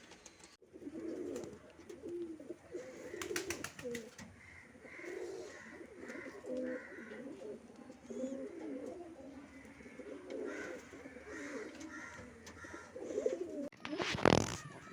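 Several domestic pigeons cooing at once, low overlapping coos in a continuous chorus. A brief, loud noise cuts across them near the end.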